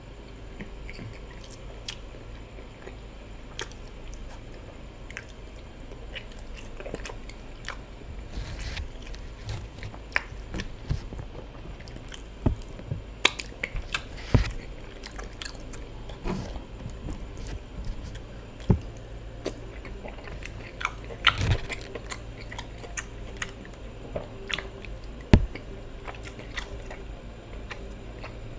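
Close-miked eating sounds from a meal of ofada rice and stew eaten by hand: chewing, biting and wet mouth smacks, with irregular sharp clicks that grow busier about a third of the way in, over a low steady hum.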